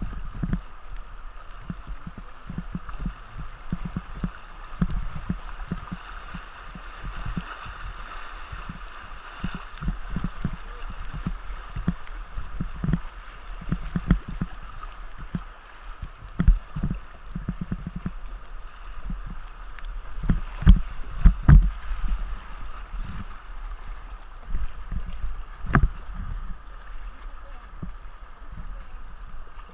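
River water rushing around a tandem kayak paddling down a current, with many irregular low thuds and knocks throughout, the strongest a little past two-thirds through.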